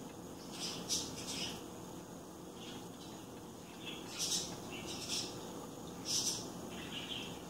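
Small bird chirping: short, high chirps, about seven of them at irregular spacing, over a steady low hum.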